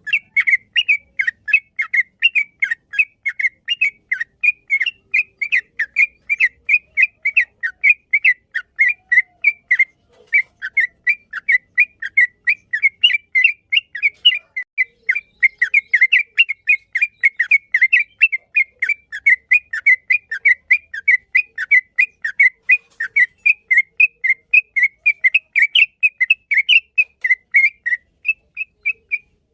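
Yellow-vented bulbul (trucukan) singing a long, fast run of short whistled chirps, several a second, with barely a break until a brief pause near the end.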